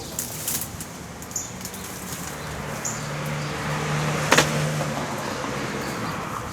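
A car passing on a nearby road, its tyre and engine noise swelling to its loudest about two-thirds of the way through and then fading. A single sharp snap or knock sounds near the loudest point.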